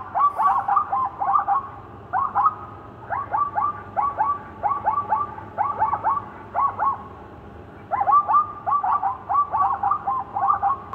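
A bird calling: quick series of short whistled notes that slide downward, several a second, in bursts broken by short pauses.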